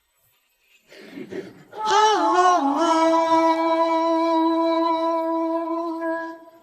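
Unaccompanied wordless vocal on an isolated vocal track: a sung note that wavers in pitch at first, then is held steady for about three seconds before it stops just before the end. The first second is near silent.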